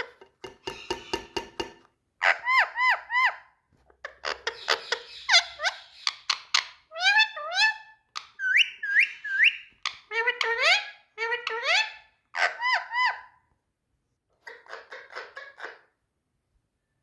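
Indian ringneck parrot calling in about nine bursts of quick, repeated high-pitched notes, with short pauses between the bursts, falling silent near the end.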